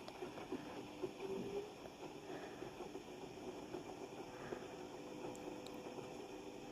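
A household appliance running with a faint, steady motor hum, with a few light knocks in the first two seconds.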